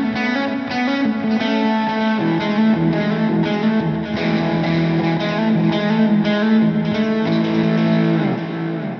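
Electric guitar played through a Donner Dumbal Drive light-gain overdrive pedal: repeatedly picked notes over sustained, lightly driven chords, with a chord change about two seconds in. Near the end it slides down and rings out.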